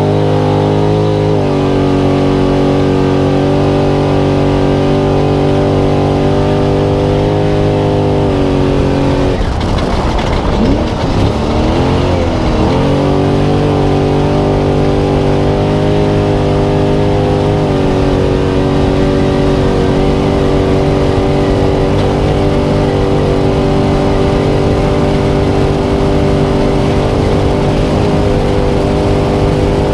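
Spec Trophy Truck's V8 engine heard onboard, running hard at a steady high pitch. About ten seconds in the revs drop and waver for a few seconds, then climb back to a steady pitch.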